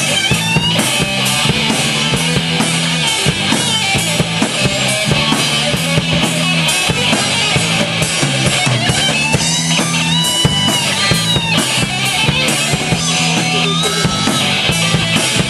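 Live rock band playing an instrumental passage on electric guitar, bass and drum kit, with a steady driving drum beat. High melodic lines bend up and down in pitch around the middle.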